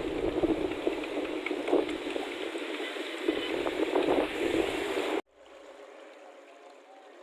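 Rushing, splashing water noise that cuts off abruptly about five seconds in, followed by a much quieter background.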